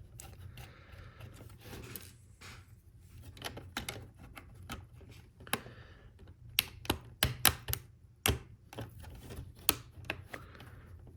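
Plastic LEGO Technic parts clicking and tapping as pieces are handled and pressed together: scattered sharp clicks, most of them bunched a little past halfway.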